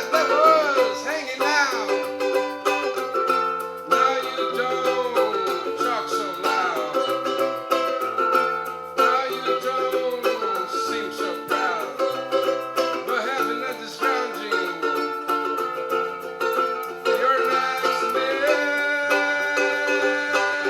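A small acoustic band playing an instrumental passage: plucked acoustic strings with a melodic lead line that slides between notes.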